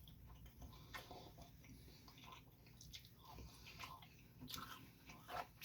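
Faint chewing: small wet mouth clicks and soft crunches of someone eating food, with a sharper click near the end.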